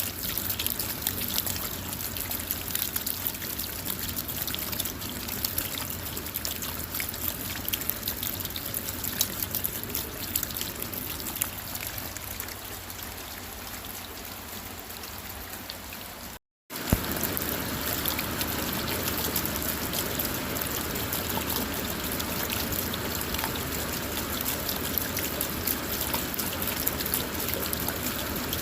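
Steady rain falling on a car, with a constant patter of individual drops over a running, trickling wash of water. The sound cuts out completely for a split second about sixteen seconds in, then carries on unchanged.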